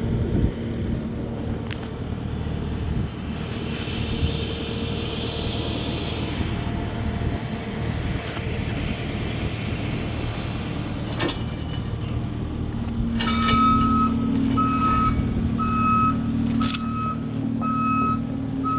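A heavy machine's engine running steadily at low revs, with a sharp metallic clank about eleven seconds in. About thirteen seconds in, its reverse alarm starts beeping about once a second as it backs up.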